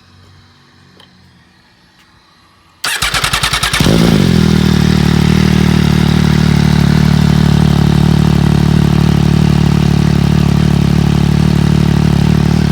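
MV Agusta Brutale 800 inline-three engine being started through an aftermarket slip-on exhaust. The starter cranks for about a second, the engine catches a little under four seconds in, its revs settle quickly, and it then idles steadily.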